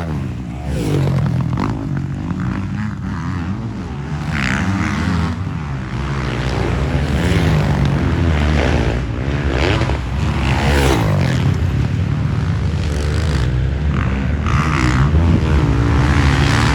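Motocross dirt bikes racing, their engines revving up and dropping back over and over as the riders work the throttle through the track.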